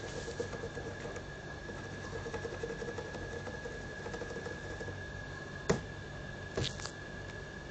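African grey parrot playing: a rapid soft clicking patter for the first few seconds, then one sharp click and a short rasping burst about a second later, over a steady faint high tone.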